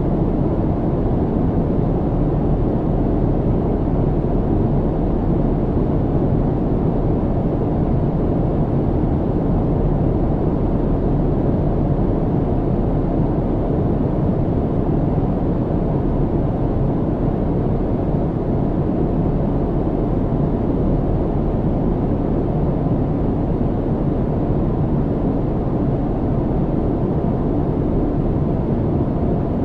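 Steady low cabin noise of an airliner in flight: an even, deep rushing hum with no changes.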